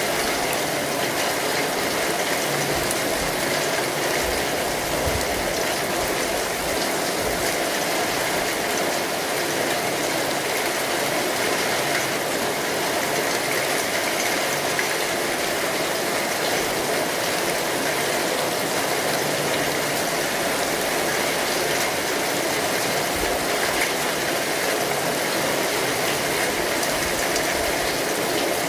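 Rain falling steadily on an umbrella, a dense, even pattering of drops that does not let up.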